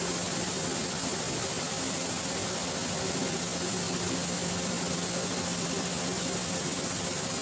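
Steady machinery hum with a constant hiss, unchanging throughout: running shop machinery in the background.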